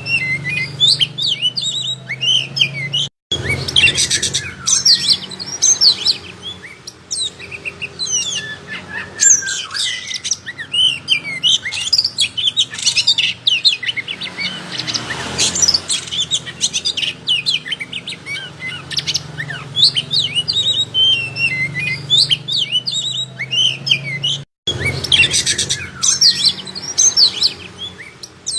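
Oriental magpie-robin (kacer) in full song: a fast, unbroken stream of varied whistles and chirps, cut by two very brief gaps, one about three seconds in and one near the end.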